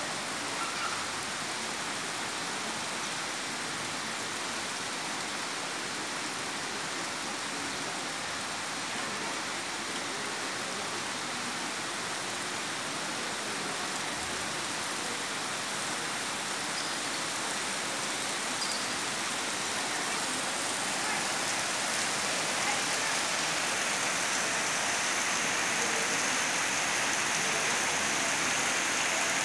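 Torrential rain pouring down steadily in an even hiss, growing slightly louder over the last several seconds.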